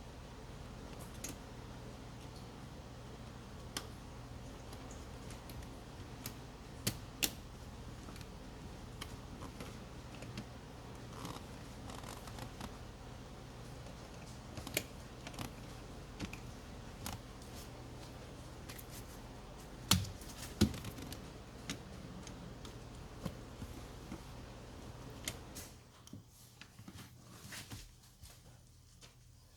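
Scattered light clicks and knocks of handling and hand-tool work, with two louder knocks about two-thirds of the way through, over a steady low hum that stops near the end.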